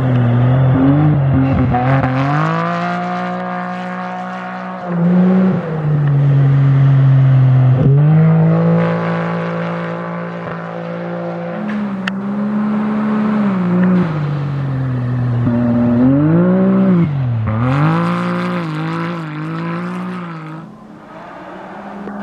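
Rally-raid competition vehicle engine running hard on the stage, revs climbing and dropping repeatedly as it shifts gears and works over the terrain, with a quick run of rev swings near the end.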